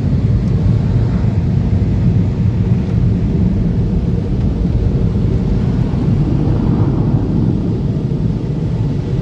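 Car wash air-dryer blowers running, a loud steady rumbling roar of rushing air heard from inside the car.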